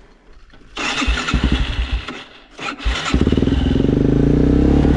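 Dirt bike engine being cranked over and catching about three seconds in, then running steadily.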